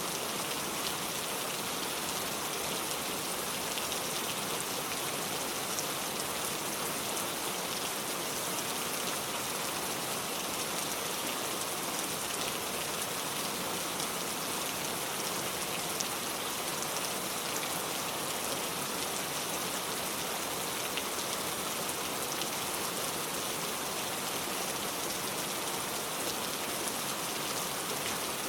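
Steady rain falling on a car, a dense even patter of drops with faint scattered ticks.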